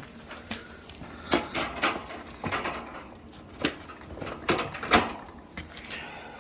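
Enclosure door or gate being shut: a series of knocks and clatters, the loudest about five seconds in.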